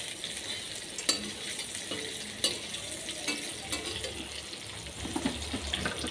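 Fried potato and cauliflower pieces being stirred in hot oil in a metal kadai: a steady sizzle, with a few sharp clicks and scrapes of the steel spoon against the pan.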